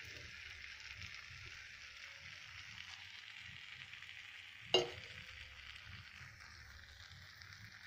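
Spice masala sizzling in mustard oil in an iron kadai as fried cauliflower and paneer go in and are turned with a steel spatula: a steady hiss, with one sharp knock about five seconds in.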